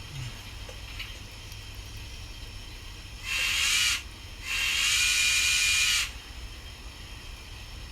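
Model 2-8-0 steam locomotive's whistle sounding two blasts, a short one about three seconds in and a longer one just after, breathy with a pitched tone, over a steady low hum.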